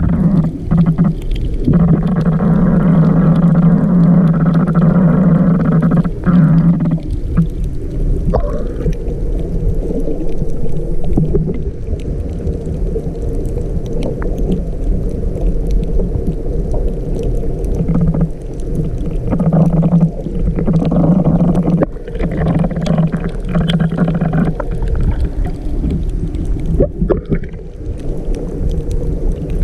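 Muffled underwater sound: a low hum that comes and goes several times, with scattered knocks and bubbling.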